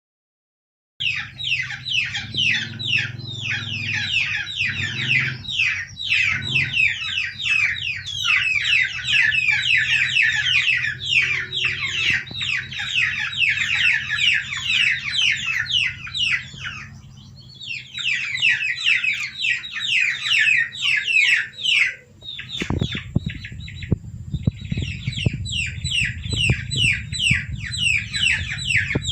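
Many baby chicks peeping continuously: a dense chorus of short, falling, high-pitched peeps, with a low hum underneath. It starts about a second in and drops away briefly twice.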